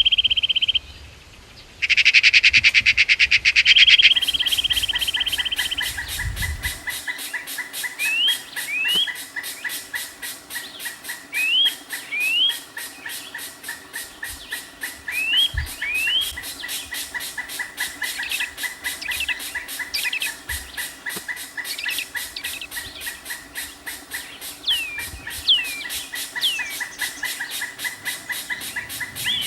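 Birds calling. A loud buzzing trill with a short break about a second in, then short rising chirps, often in pairs, over a steady rapid pulsing background.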